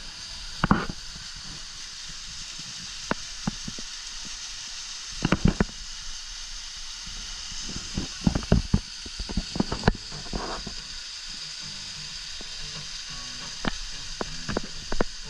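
Steady hiss of rushing river water and waterfalls, with scattered sharp clicks and knocks.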